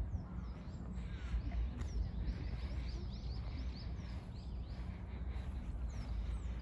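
Birds chirping in short high notes, with a quick run of chirps around the middle, over a continuous low rumble.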